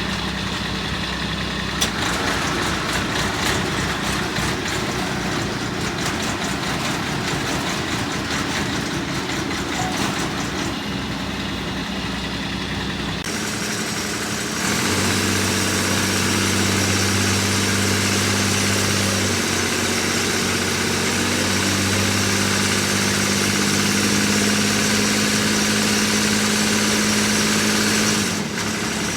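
Engine of a mini crawler dumper running at a steady idle, with a steady hum that steps up louder about halfway through.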